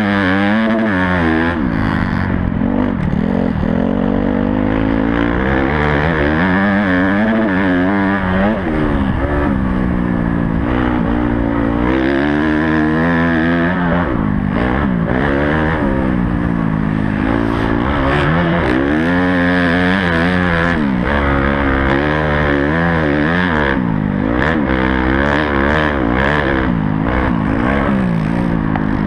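Honda CRF250 dirt bike's four-stroke single-cylinder engine, heard onboard during a motocross lap, revving up and falling back over and over through throttle and gear changes. A steady low rumble and occasional sharp clattering knocks run under it.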